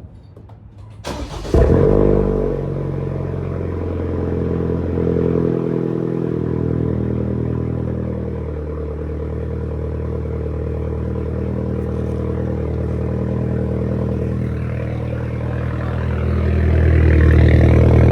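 Cold start of a straight-piped BMW 420i four-cylinder, with the mufflers and resonator removed: the starter cranks briefly about a second in, the engine catches with a loud flare, then settles into a steady, loud high idle that swells a little near the end.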